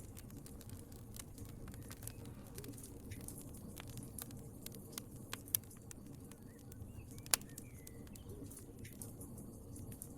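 Wood fire crackling in a fireplace: a steady low rumble of burning with irregular sharp crackles, and two louder pops about five and a half and seven seconds in.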